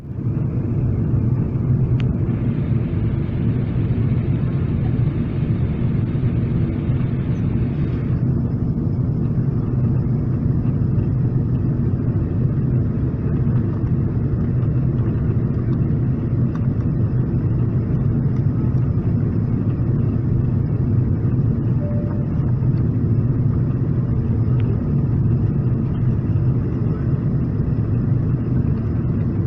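Steady rumble of a Boeing 777-300ER's cabin in flight, the noise of airflow and engines heard from a passenger seat. About eight seconds in, the higher hiss in it gets a little stronger.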